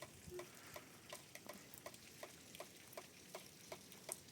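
Faint light clicks or taps repeating about four times a second against a quiet background.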